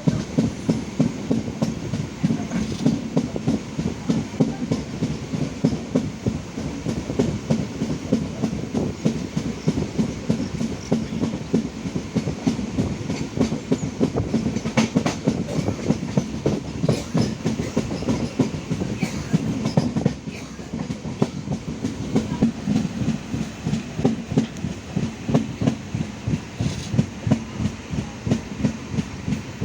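Passenger train running on the line, its wheels clicking rapidly and rhythmically over the rail joints above a steady low rumble.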